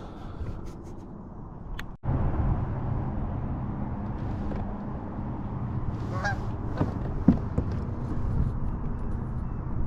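Steady wind and water noise from a kayak under way, which jumps up after a brief dropout about two seconds in. A single short honking call comes about six seconds in, followed a second later by a short knock.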